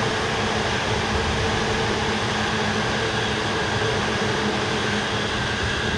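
Keihin-Tohoku Line E233-series electric commuter train running past at steady speed: a steady rumble of wheels on rail with a steady hum.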